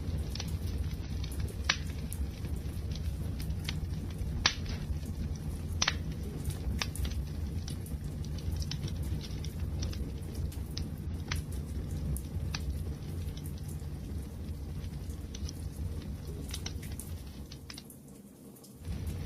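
Wood fire crackling: a steady low rumble of burning with scattered sharp pops and snaps, a few louder ones in the first six seconds. The sound fades down near the end.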